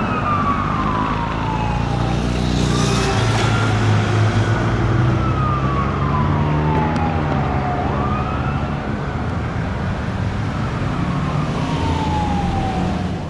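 Fire apparatus siren on a slow wail cycle, each cycle falling slowly in pitch and then sweeping quickly back up about every five seconds, over the steady rumble of the truck's diesel engine.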